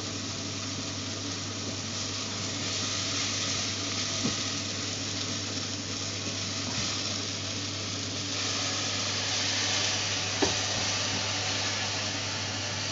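Food sizzling in a pan on the stove, a steady hiss over a low hum, with a couple of light utensil knocks.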